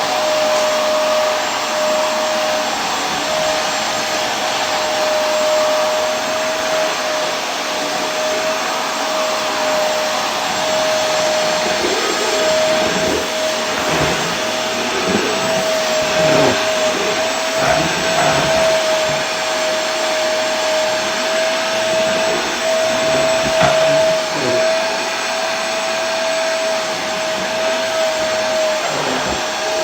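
Vacuum cleaner running steadily: a constant rush of air with a steady motor whine, and a few short irregular knocks in the middle.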